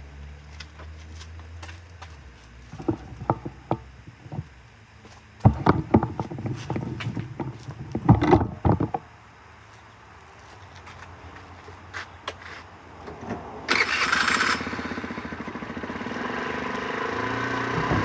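Cold start of a Yongfu Wicked 50 scooter's 50cc four-stroke engine after sitting overnight: scattered knocks and clatter, then near the end a short cranking burst as the engine catches at once. It settles into a steady fast cold idle.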